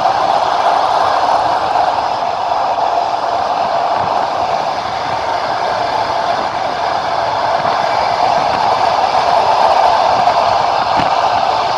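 Steady running noise of a passenger train under way, heard from aboard: wheels and carriage rushing along the rails.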